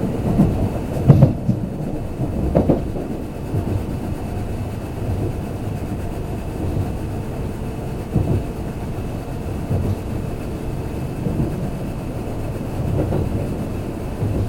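Kintetsu limited express train running at speed, heard from inside the passenger car: a steady low rumble of wheels on rail, with occasional knocks from the wheels passing over rail joints, the loudest about a second in.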